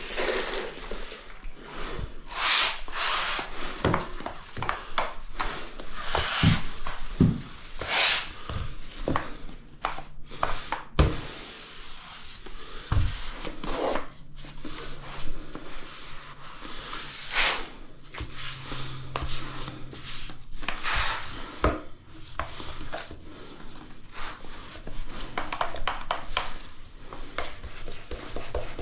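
Tiling work: hand tools scraping and spreading tile adhesive in irregular strokes every second or two, with occasional sharp knocks and taps.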